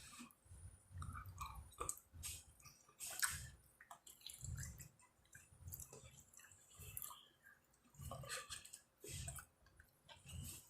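A person chewing a mouthful of chicken, lobster and shrimp alfredo, with wet smacking and clicking mouth sounds coming in uneven chews.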